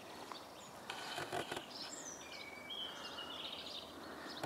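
Birds singing: a few short, clear whistled notes over faint steady outdoor background noise, with a brief burst of clicks about a second in.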